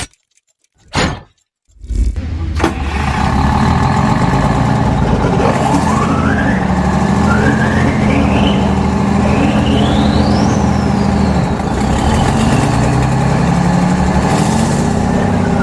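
1959 Detroit Diesel 6-71 quad power unit, four two-stroke inline-six diesels on one gearbox, starting about two seconds in and then running loudly. A whine rises in three steps as the engines rev, then falls back.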